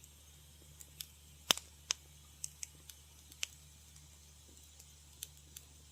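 Wood fire crackling in a fireplace: irregular sharp pops and snaps, the loudest about a second and a half in, over a faint steady low hum.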